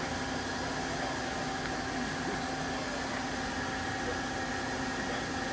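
Mazak Quick Turn 30 CNC lathe running under power: a steady mechanical hum with a few held tones over an even whir.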